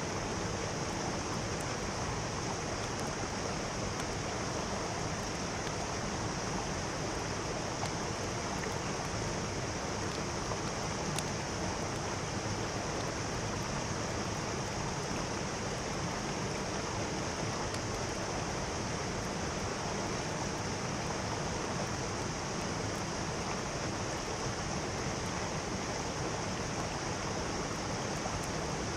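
Mountain stream running steadily, an even rush of water with a bright hiss that does not change.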